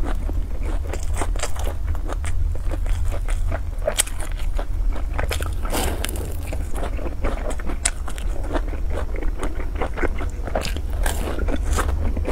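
Close-miked biting and chewing of a fried dough stick (youtiao) softened in a milky dip. It gives many short, crisp crunches and wet chewing clicks throughout, over a steady low hum.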